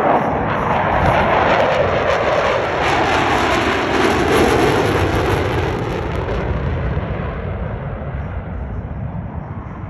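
Fixed-wing aircraft flying past: a loud engine noise that falls in pitch and fades away over the last few seconds.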